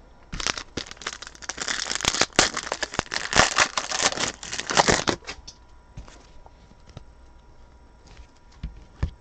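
Foil trading-card pack wrapper being torn open and crinkled for about four and a half seconds, then a few light taps as the cards are handled.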